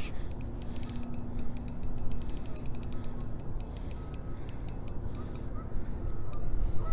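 Fishing reel being cranked: a fast, even run of mechanical clicks that thins to scattered clicks after about four seconds.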